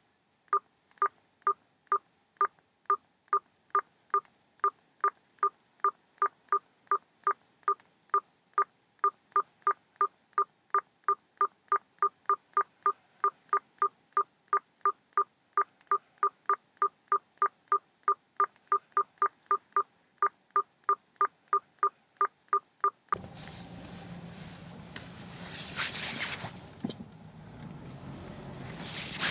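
A short electronic beep repeating steadily, about two and a half times a second, then stopping abruptly near the end and giving way to a rustling, rumbling background noise with a few clicks.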